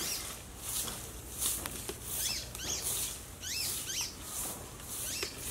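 Small birds chirping repeatedly in short hooked calls, over a high hiss that pulses a little under twice a second.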